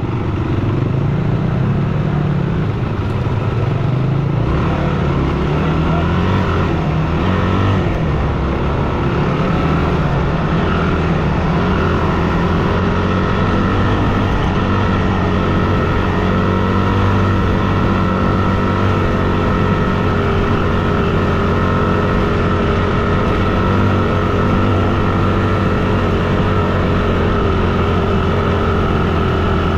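Yamaha WR250F's 250 cc single-cylinder four-stroke engine running under way, its pitch rising and falling with the throttle for the first several seconds, then holding steady at a constant cruising speed.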